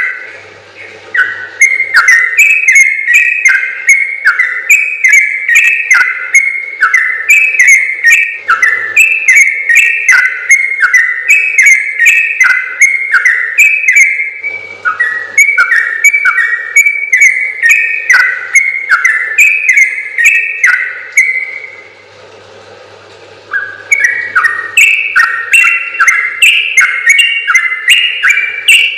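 Yellow-vented bulbul (trucukan) singing long, fast runs of bubbling whistled notes, phrase after phrase. The song breaks off briefly about 22 seconds in, then starts again.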